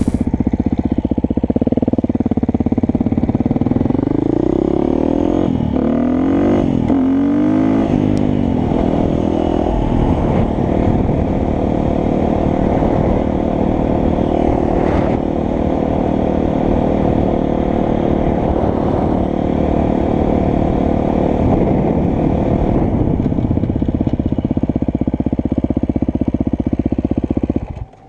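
Motorcycle engine pulling up through the gears, its pitch rising in several sweeps, then running steadily at cruising speed. It cuts off abruptly near the end.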